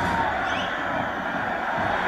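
Sports-hall crowd noise and players' voices during a futsal match, a steady echoing din with a few short high squeaks near the start.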